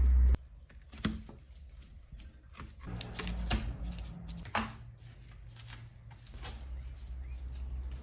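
Scattered light clicks and rustles of hands pressing and handling a self-adhesive wall sticker. A low hum cuts off just after the start.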